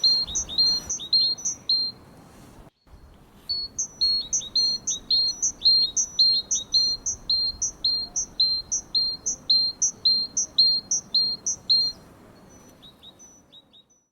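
Great tit singing its two-note song, a higher note then a lower one, repeated about three times a second. A short burst comes first, then a pause of about two seconds, then a long run that breaks off near the end into a few faint notes.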